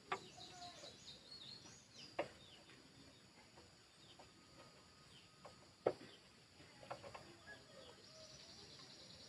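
Birds chirping faintly, with a few sharp clicks or knocks: one just after the start, one about two seconds in, and the loudest about six seconds in.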